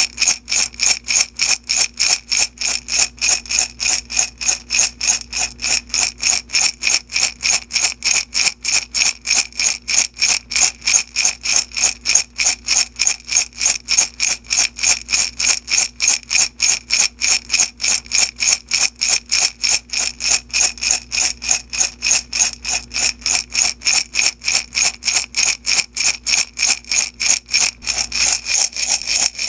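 Small beads shaken in a glass jar, rattling and clinking against the glass in a steady rhythm of about three shakes a second.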